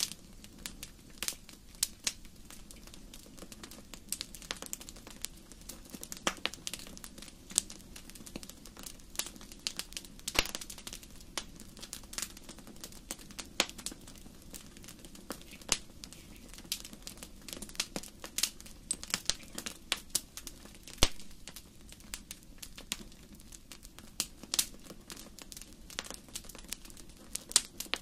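Wood fire crackling in a fireplace: irregular sharp pops and snaps, some louder than others, over a low steady rumble of the flames.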